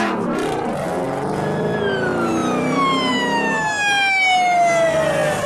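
A siren wailing, its pitch sliding steadily down over a few seconds, over the low running of vehicle engines.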